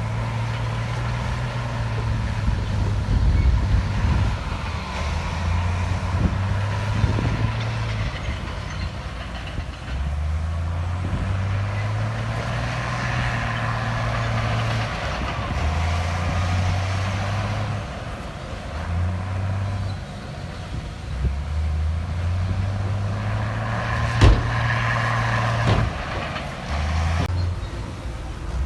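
Heavy diesel engine of earthmoving machinery working, its drone rising and falling as the load changes, with two sharp metallic knocks near the end.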